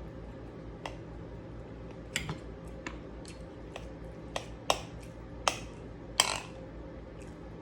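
Eating sounds: about ten sharp, irregular clicks and crunches, the loudest about six seconds in with a short crackle, over a faint steady hum.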